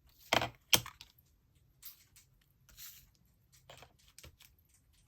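Paper and small craft tools being handled on a desk: two sharp taps close together near the start, then scattered soft taps and paper rustles.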